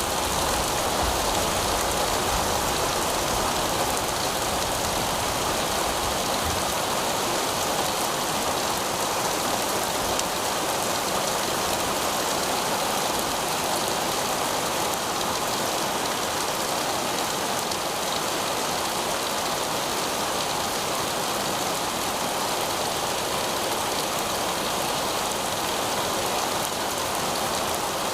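Heavy rain falling steadily on pavement, a dense even hiss of drops splashing on the hard surface.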